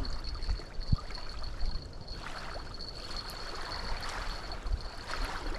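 Wind buffeting the microphone over water lapping and splashing at the bank, with a louder rush of water noise in the middle. A thin, steady high whine runs throughout.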